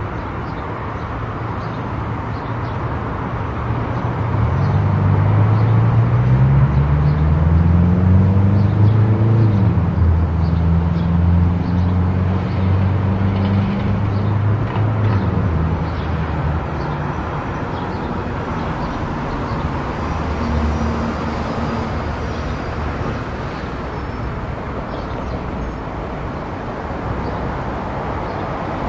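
Steady road and tyre noise of a car driving on a highway. From about four seconds in, a louder low engine drone comes in, rises in pitch for a few seconds, holds, then fades out after about sixteen seconds.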